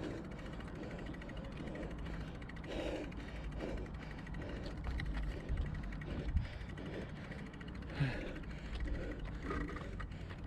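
Bicycle on the move with steady low wind and road rumble, the bike creaking and rattling, and a few sharp knocks over bumps past the middle.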